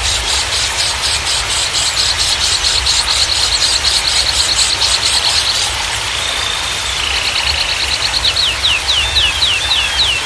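A songbird singing rapid trills of quick repeated high notes, with a held note about six seconds in and a run of fast downward-sweeping notes near the end, over a steady rush of running water.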